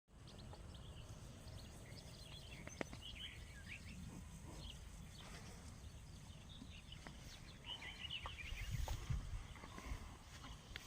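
Faint outdoor ambience: scattered short bird chirps over a steady low rumble, with a few light clicks.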